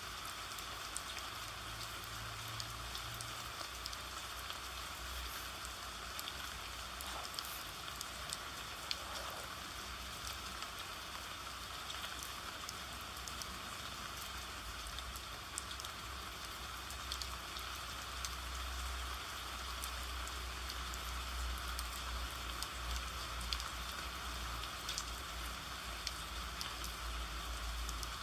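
Steady rain falling, with many small scattered drop ticks over an even hiss and a low rumble underneath.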